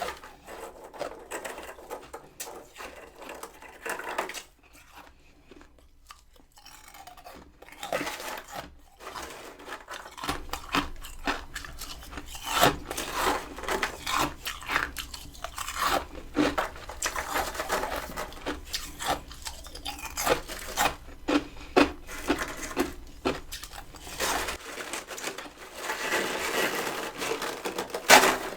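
Close-up crunching and chewing of freezer frost ice: many crisp, irregular bites and chews, sparse at first and then busier and louder from about ten seconds in.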